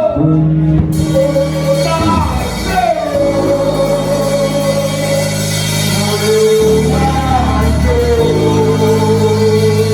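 Church worship music: a song with long held, gliding melody notes over steady sustained chords.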